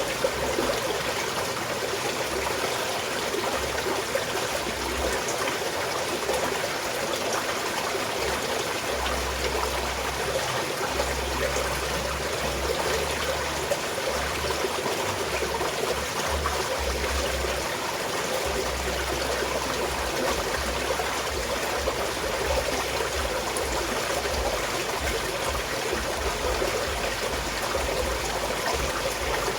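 A small mountain stream flowing and trickling steadily.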